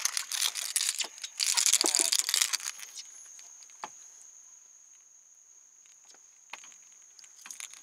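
Water splashing in a quick cluster of sharp, crackling splashes for the first three seconds, then dying away to a few faint ticks. A steady, thin high-pitched whine comes in after about three seconds.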